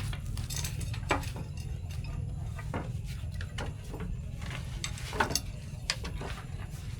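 Irregular light clicks and knocks, a few sharper ones about a second in and near five seconds, over a steady low rumble.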